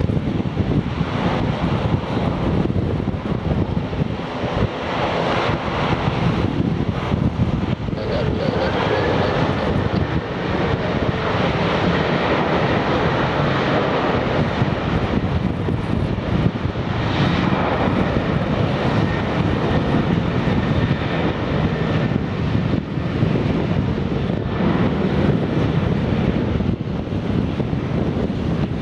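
Boeing 737-800's CFM56-7B26E turbofan engines running at high thrust during its takeoff, a loud steady jet noise with a thin whine held through the middle of the stretch.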